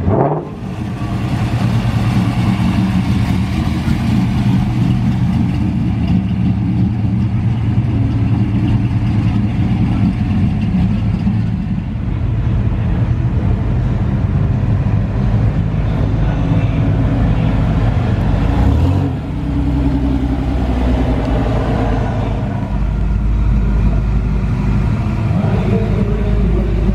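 Car engines running at low speed, a steady low drone, with the engine note briefly changing about two-thirds of the way through.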